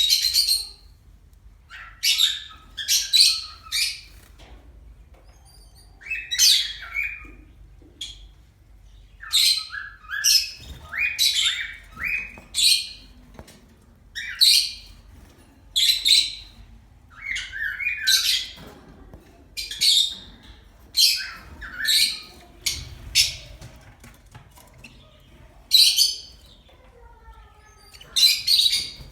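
Pet birds calling: a run of short, loud, high-pitched calls, one every second or two, some coming in quick clusters of two or three, with brief quiet gaps between.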